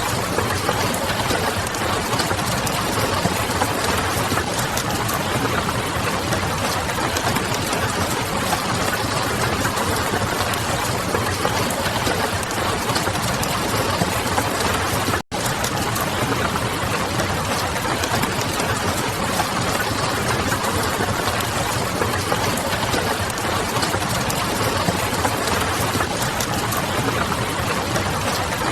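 Steady rain mixed with the small crackles of a wood fire and a low background hum. The sound cuts out for an instant about halfway through, where the ambience loop joins.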